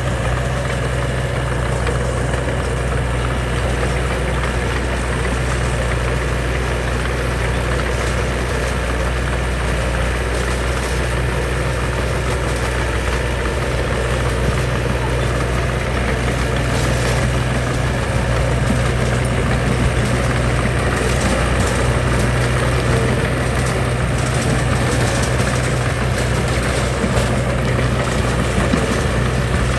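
Heavy diesel engine of construction machinery running steadily with a low, even hum.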